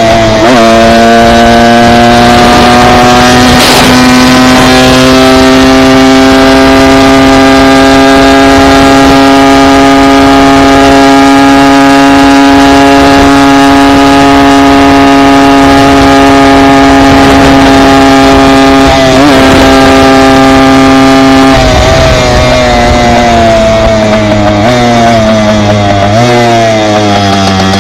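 Dirt bike engine held at a steady high rev for about twenty seconds, with a brief dip in pitch near the start and another near the end of that stretch, then the revs dropping in steps as the bike slows.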